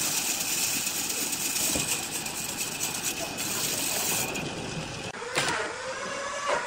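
Wood lathe running with a tool cutting the spinning wood, a steady hiss that stops about four seconds in. The lathe's motor whine follows, with a couple of sharp knocks near the end.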